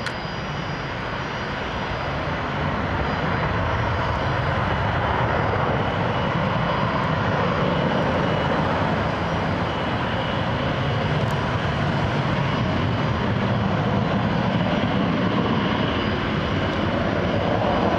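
Boeing 727-200 freighter climbing out at takeoff power, its three Pratt & Whitney JT8D turbofans giving a loud, steady jet roar that swells over the first few seconds and then holds.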